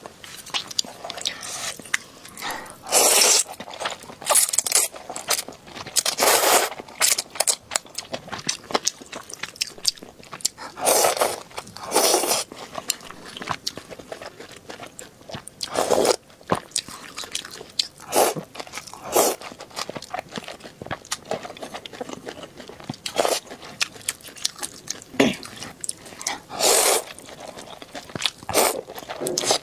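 Close-up eating sounds: a person chewing and biting into a luosifen meal with pig trotters and chicken feet, with irregular crunches and louder wet bursts every few seconds.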